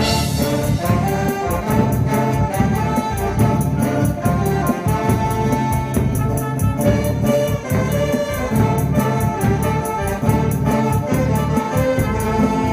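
An amateur instrumental ensemble playing live: a brass-like melody with sustained notes over a drum-kit beat kept steadily on the cymbals.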